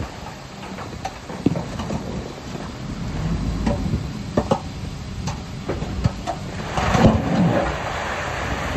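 Heavy earthmoving machinery running with a steady low rumble, with scattered metallic clanks and knocks. A louder rattling stretch comes about seven seconds in.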